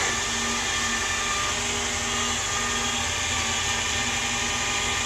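The 2002 GMC C6500 dump truck's 8.1-litre gasoline V8 running steadily, a constant mechanical hum with a whine over it.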